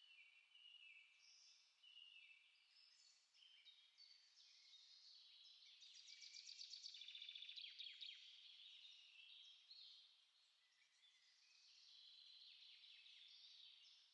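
Faint songbirds singing, several chirping and warbling phrases overlapping, with a fast trill of rapidly repeated notes from about six to eight seconds in.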